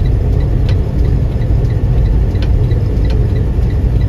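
Semi-truck cab with the steady low rumble of the engine and road, over which the four-way hazard flashers tick evenly, about three times a second. A few sharper knocks come now and then.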